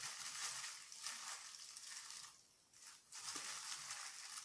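Spoonfuls of powdered alum being scooped and tipped in: a soft, dry hissing pour that comes in several stretches, with a short pause a little past halfway.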